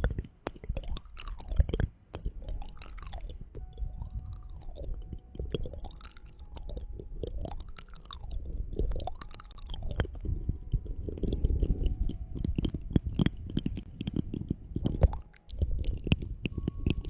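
Close-miked ASMR trigger sounds: many wet clicks and crackles with sweeping strokes about once a second over a low rumble at the microphone.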